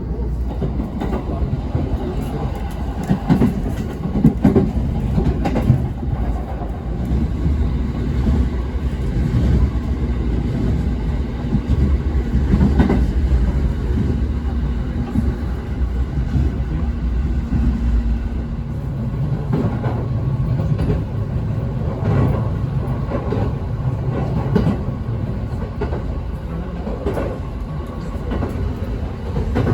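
Electric commuter train running along the track: a continuous low rumble with irregular clacks of the wheels over rail joints. A steady hum holds for a stretch in the middle.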